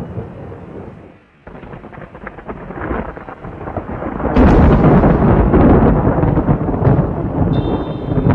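Thunder during a rainstorm: rumbling that fades almost away about a second in, builds back with crackling, then a sudden loud thunderclap about four seconds in that rolls on as a heavy rumble.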